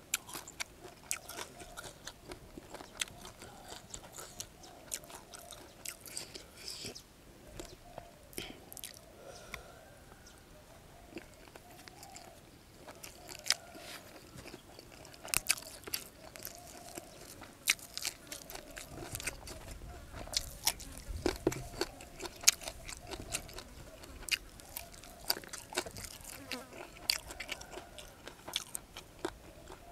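A person eating close to the microphone: chewing mouthfuls of minced shrimp salad (larb) with fresh leaves, with many short crisp crunches and clicks at an irregular pace. A faint wavering buzz runs underneath.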